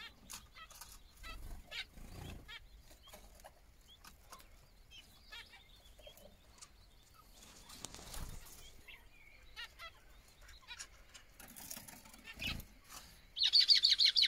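Small aviary birds chirping on and off, with a few soft low thumps. Near the end comes a loud, rapid run of high chirps.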